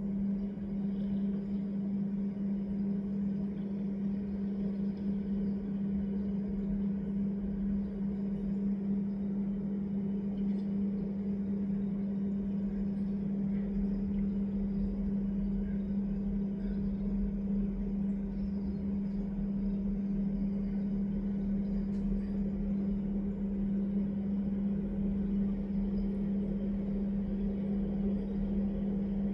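Steady low-pitched hum: one unchanging tone with a fainter overtone above it and a light hiss underneath. It is typical of a recording fault in badly damaged, low-quality phone audio.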